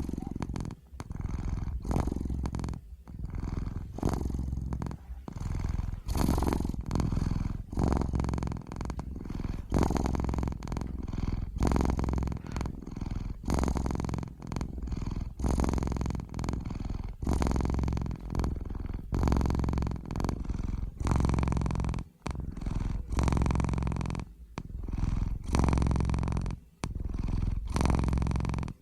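Domestic cat purring close to the microphone, a steady low rumble that swells and fades with each breath, about one cycle every one to two seconds.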